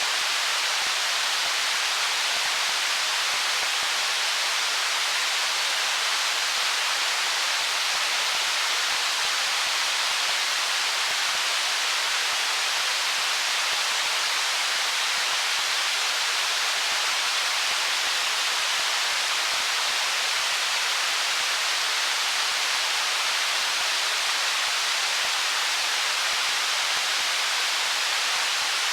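Stream water flowing over stones: a steady, even rushing hiss with no breaks or splashes standing out.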